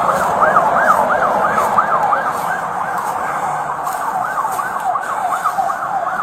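Emergency vehicle siren in yelp mode: a fast rising-and-falling wail, about three cycles a second, that weakens briefly around the middle and then comes back.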